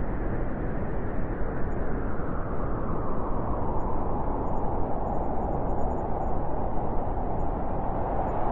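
Blizzard wind blowing hard and steadily, its sound growing higher and brighter about halfway through.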